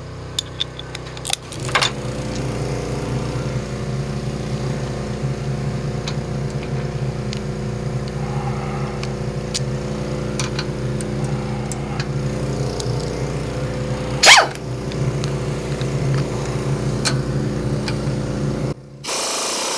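A motor or engine running steadily, starting about a second and a half in and cutting off abruptly near the end. A few light clanks come in the first two seconds, and there is one loud sharp bang about two-thirds of the way through.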